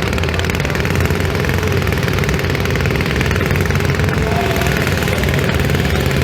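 Tractor engine running steadily, a loud even drone with no revving or breaks.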